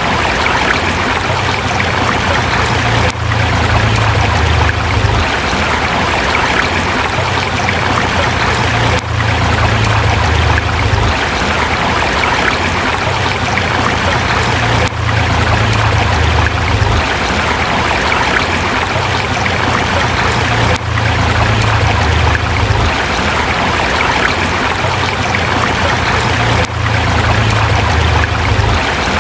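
Forest river rushing over rocks in a steady, even wash of water noise, with a deep rumble underneath.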